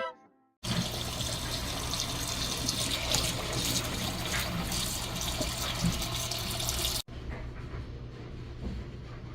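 Water running steadily, as from a tap, cutting off abruptly about seven seconds in. A quieter stretch of faint knocks over a steady low hum follows.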